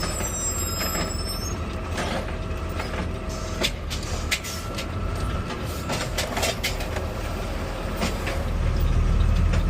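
Garbage truck engine running while its automated arm grabs and lifts a trash bin, with steady whining and scattered clanks and knocks. The engine grows louder near the end as the arm works.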